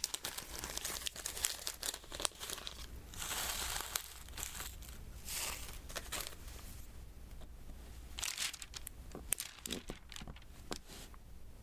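Diamond painting materials handled close to the microphone: plastic crinkling and rustling in short spells, with scattered small sharp clicks.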